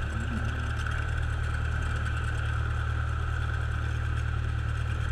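Cessna's single piston aero engine running steadily, a constant drone heard inside the cockpit.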